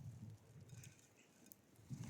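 Near silence: faint outdoor background, with a tiny click about one and a half seconds in.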